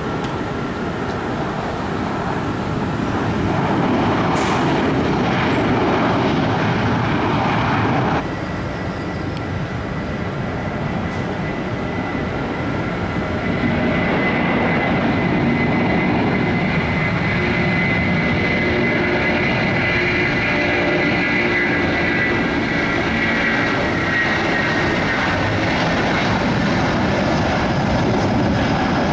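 Jet aircraft engines running, a steady rushing roar that changes abruptly about eight seconds in, after which a thin high whine comes up and grows stronger in the second half.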